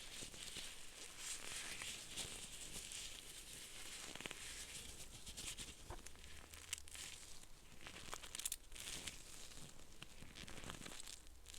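Close-miked crinkling and rustling, something being handled slowly in soft swells, with many small crackly clicks.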